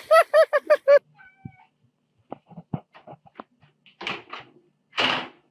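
A pet animal giving a fast string of short, high, rising-and-falling calls, about six a second, which stop about a second in; then a few soft clicks and two short hissing bursts near the end.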